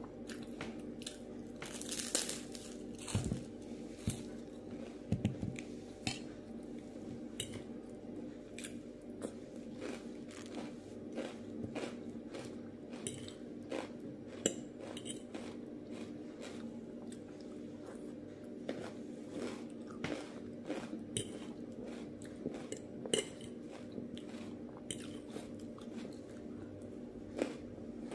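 Close-up crunchy chewing and biting of a crispy puffed rice cake topped with avocado and of fresh salad vegetables, many sharp crunches coming irregularly over a steady low hum.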